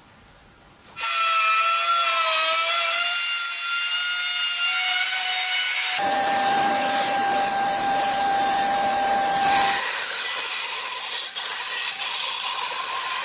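An electric power tool working wood: after about a second of quiet its motor whine starts and wavers in pitch, then holds steadier with a rasping noise of the tool on wood, easing into a hissy rubbing near the end.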